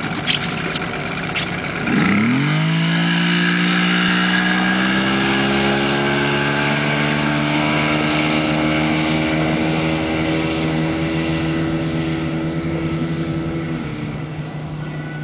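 70 hp Mercury outboard motor opened from idle to full throttle about two seconds in. Its note jumps, then climbs steadily as the boat takes off, and holds high before easing down a little near the end.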